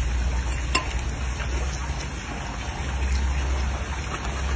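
A man chewing a mouthful of seafood, with a sharp click about three-quarters of a second in and a few fainter ticks, over a steady low rumble.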